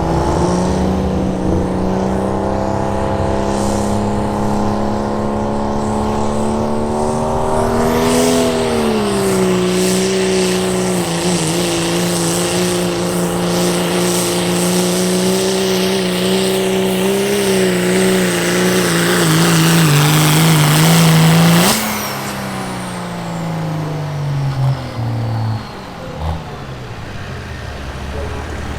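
Turbocharged diesel pickup on a sled pull with its engine held at high revs. About eight seconds in, a loud hiss and whistle joins as the pitch dips and slowly sags under the growing load. The throttle is cut about twenty-two seconds in, and the engine revs and turbo whine wind down to a low run.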